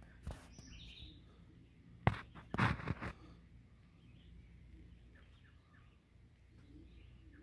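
Quiet outdoor background with birds chirping now and then, and a few brief knocks about two to three seconds in.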